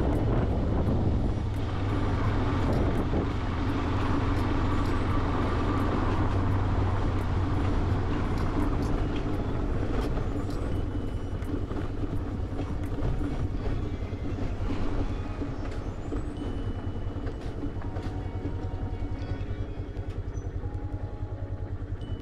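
Yamaha motorcycle engine running, gradually getting quieter and settling into an even, pulsing idle in the second half as the bike comes to rest.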